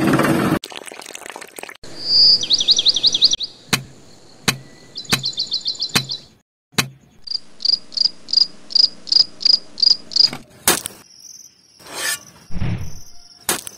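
High insect chirping, cricket-like, in short trains of evenly spaced chirps at about four or five a second. Sharp clicks and taps come now and then, and a brief low scraping sound near the end.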